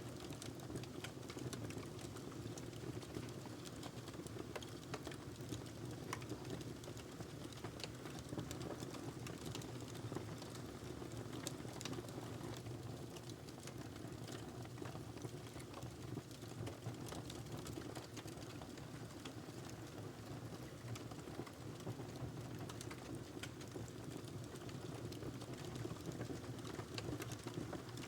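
Log fire burning in a fireplace, crackling with frequent small pops and snaps over a steady low rumble of the flames.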